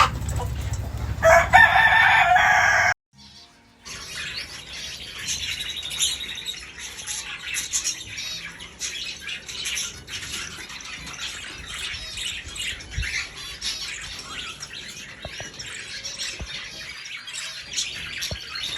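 One loud drawn-out bird call in the first three seconds. After a brief silent gap comes a dense, continuous chatter of many small birds chirping together.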